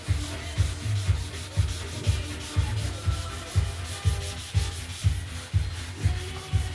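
Sandpaper being rubbed back and forth by hand over the primed fiberglass hull of a boat, wet with soapy water, in steady strokes about twice a second.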